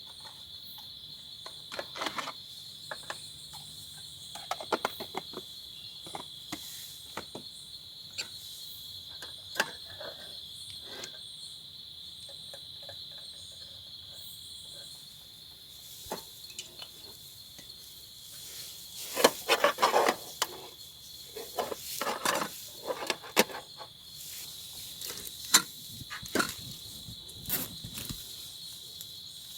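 Steady high-pitched insect chorus, with scattered sharp clicks and knocks that come thickest about two-thirds of the way through.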